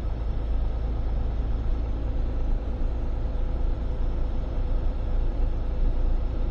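Inside the cab of a Freightliner semi-truck, the diesel engine runs steadily with road noise while driving. It makes a constant deep rumble with a faint steady hum above it.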